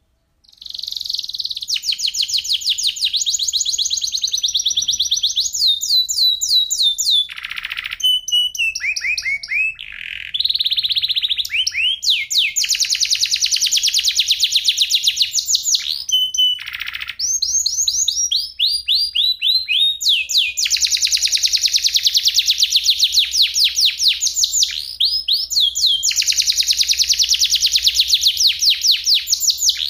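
Domestic canary singing a long, fast song: dense rolls of very rapid repeated notes alternating with runs of falling whistled sweeps, broken by brief pauses between phrases. It starts about half a second in.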